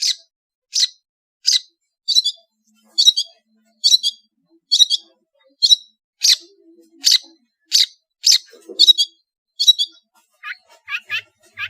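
Long-tailed shrike (cendet) calling: a steady run of short, harsh, high notes, about one to two a second and some doubled, switching near the end to quicker, lower rising chirps.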